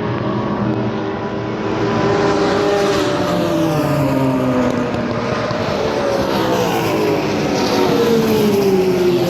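Several racing car engines running at once on the circuit, their pitch sliding up and down as they accelerate and back off, with a long falling pitch near the end.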